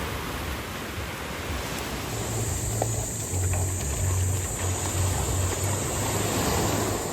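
Steady rushing outdoor noise, joined about two seconds in by the low bass of background music.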